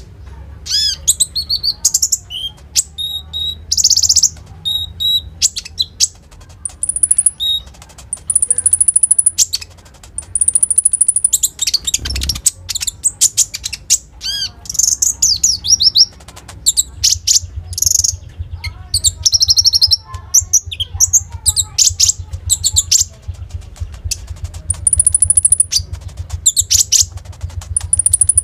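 A konin, a small sunbird kept as a songbird, singing a loud, fast and varied song of high chirps, trills and short whistles, some rising or falling, with brief pauses between phrases, over a faint steady low hum.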